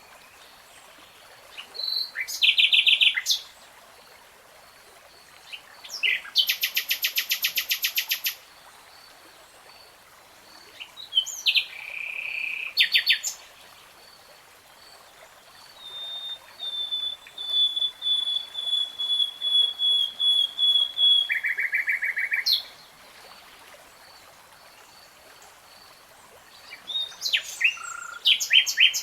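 Common nightingale singing: separate loud phrases with short pauses between them, made of fast trills of repeated notes. One long series of repeated notes builds in loudness over about six seconds.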